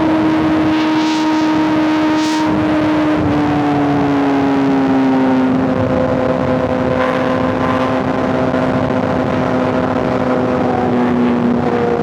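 Inline-four superbike engine and exhaust running at a steady highway cruise, its note easing slightly lower over the first few seconds. Wind and road noise run steadily underneath.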